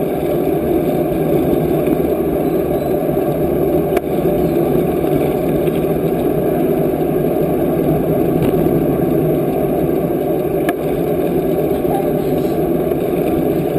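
Steady, loud rushing of wind buffeting the microphone of a camera carried on a moving bicycle, with a few faint clicks.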